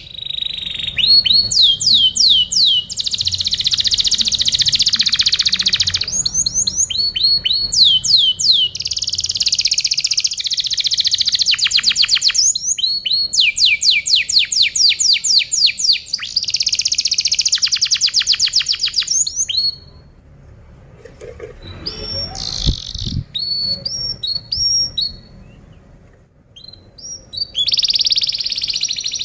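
Domestic canary singing a long song of rapid trills and quickly repeated falling sweeps. It drops to a few scattered quieter notes about twenty seconds in, then resumes loudly near the end.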